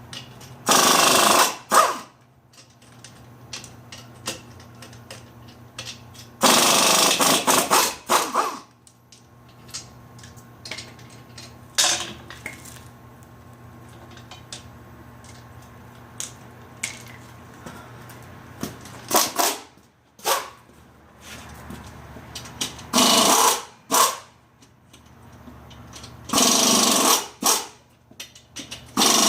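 Air impact wrench hammering in repeated bursts of one to two seconds, six or seven in all, driving Pittsburgh impact sockets on the leaf spring hardware. A steady low hum runs underneath and stops about two-thirds of the way through.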